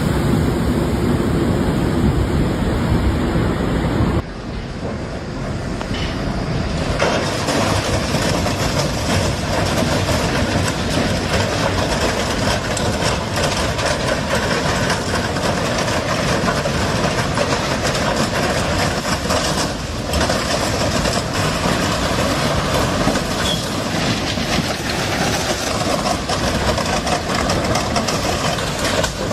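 A train running on the rails: a steady rumble and wheel clatter. It changes abruptly about four seconds in, then runs on steadily.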